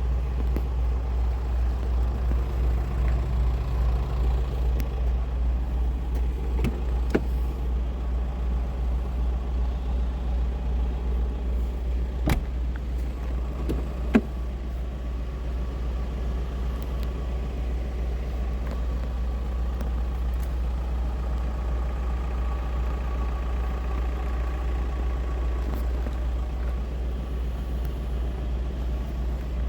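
A car engine running steadily with a deep low rumble that pulses evenly, with a few short sharp clicks scattered through it.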